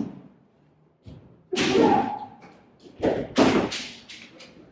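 Kendo sparring: a short shout about a second and a half in, then a cluster of sharp cracks and thuds about three seconds in, from bamboo shinai strikes and stamping feet.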